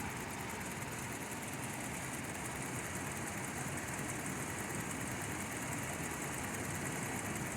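2004 Toyota Land Cruiser Prado's 4.0-litre V6 petrol engine idling steadily.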